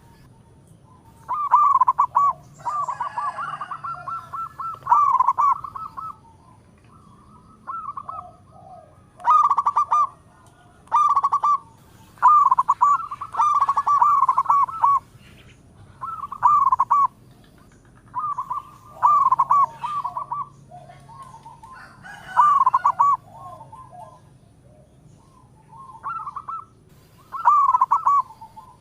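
Zebra dove (perkutut) cooing, its short phrases of quick notes repeated every second or two with brief pauses between.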